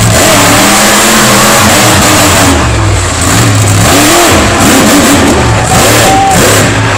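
Saigon Shaker monster truck's engine revving hard, its pitch rising and falling again and again as the throttle is worked, very loud throughout.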